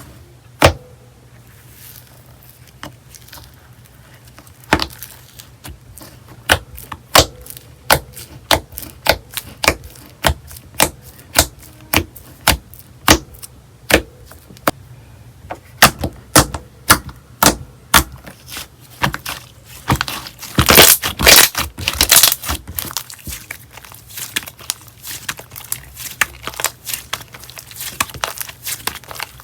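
Slime being pressed and worked by hand, giving sharp popping clicks at an irregular pace of about one or two a second, with a thicker run of crackling pops about two-thirds of the way through.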